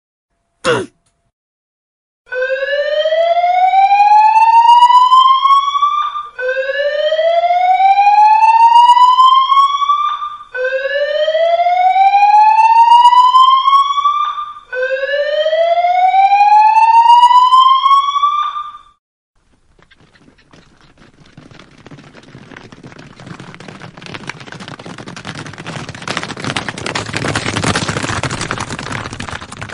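Alarm siren sound effect: four long rising wails, each climbing in pitch for about four seconds, one after another. After them a broad rushing noise swells up and grows louder towards the end.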